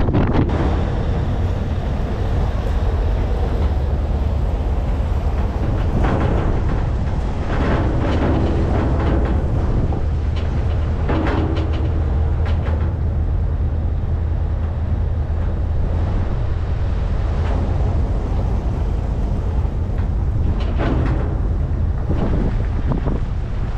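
Scania 770S truck's 16.4-litre V8 diesel running steadily under way, a constant low hum mixed with road and wind noise that swells briefly now and then.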